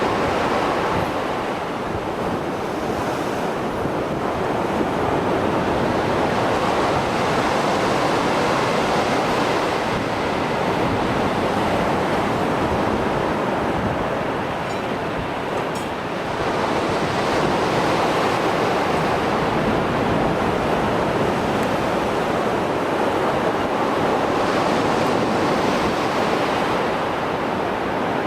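Mediterranean Sea waves after a storm, breaking and washing ashore in a continuous rush. The noise swells and eases in slow surges every several seconds.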